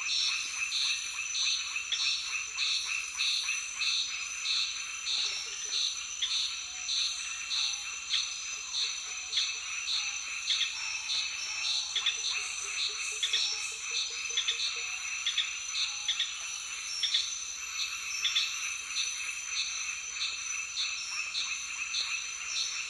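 Forest chorus of frogs and insects calling steadily, with a high call pulsing about twice a second and a lower rattling croak train a couple of times.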